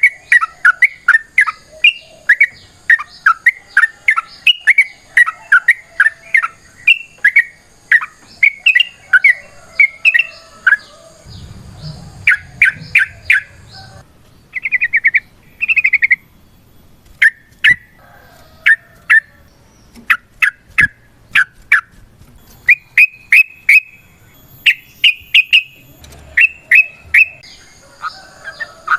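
Yellow-vented bulbul (trucukan) singing a long, rapid chattering run of sharp, loud chirps. It breaks into shorter bursts with brief pauses about halfway through. This is the excited, aggressive full song used as a lure to draw other bulbuls into calling back.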